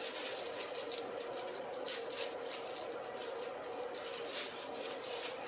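Soft rustling and handling sounds of packaging as power cables are pulled out of a box, a few light scratchy rustles over a steady background hum.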